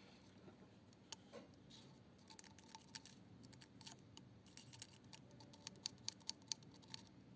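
Faint light clicks and taps, coming thicker and quicker from about four and a half seconds in as a run of sharp irregular clicks.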